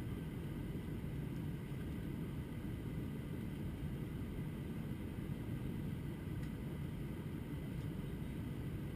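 Steady cabin noise inside a Turkish Airlines Airbus A321-200 airliner in flight: an even low rush of engine and airflow noise that holds constant, with a faint steady hum above it.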